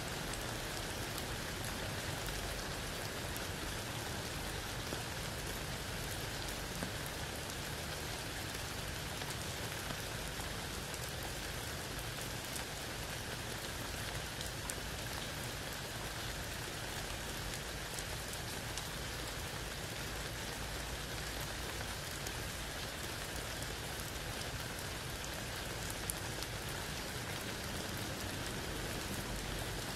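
Steady rain falling through tree leaves onto grass and a puddle, with scattered louder single drops.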